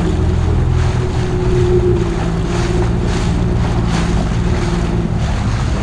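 Jet ski engine running steadily under way, with water rushing and wind buffeting the microphone.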